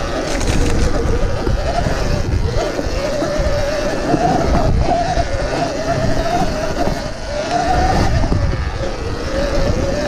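Surron Ultra Bee electric dirt bike riding single track: the motor's whine wavers up and down with the throttle over a heavy rumble of wind buffeting and bumps.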